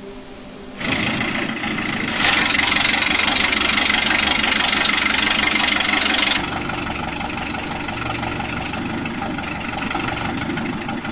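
An engine starts about a second in and runs at high revs for about five seconds, then drops back to a steadier, lower run with an even pulse.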